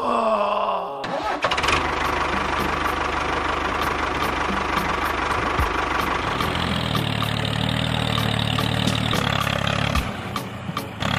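A motor starts up with a brief falling whine and a few clicks, then runs steadily with a rattling hum. About six and a half seconds in, a deeper hum joins.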